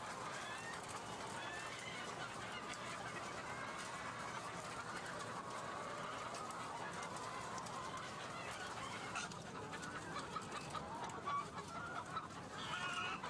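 A large number of caged egg-laying hens clucking together in a steady, dense chatter, with a few separate louder calls standing out near the end.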